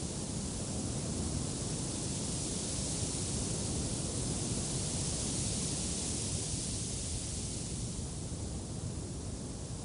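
Steady wind blowing, a low rumble under a hiss that swells for a few seconds midway and then eases.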